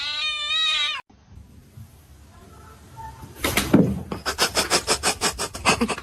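A cat's drawn-out meow that cuts off about a second in, then, after a short lull, a quick run of scratchy rubbing strokes, about six a second, through the last two and a half seconds.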